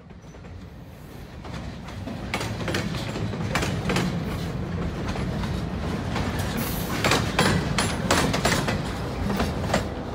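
Freight train rolling past, a steady rumble of cars on the rails with irregular sharp wheel clicks. It fades in over the first couple of seconds.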